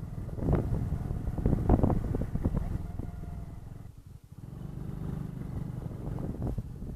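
Honda Cross Cub's single-cylinder four-stroke engine running at low speed, with a brief drop about four seconds in before it picks up again.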